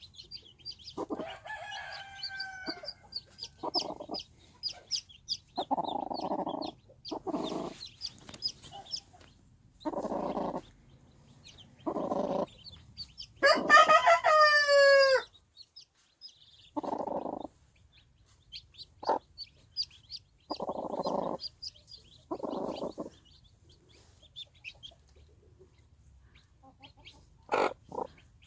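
Chicks peep steadily while a brooding hen clucks in short, low bursts every few seconds. About halfway through, a rooster crows once, loud and falling in pitch.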